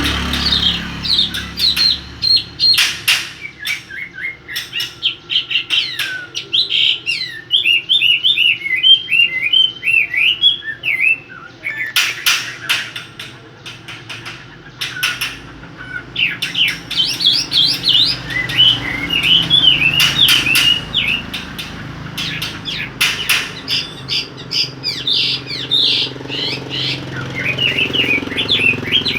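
Caged songbird singing in quick high chirping phrases, with sharp clicks scattered among the song.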